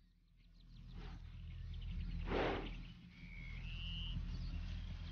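Outdoor wildlife ambience over a low steady hum, with a short rush of noise about two and a half seconds in and a brief two-note bird whistle, the second note higher, just after it.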